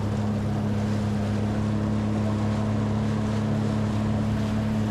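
Jet ski engine running at a steady speed, its note holding level, over a rush of water and wind.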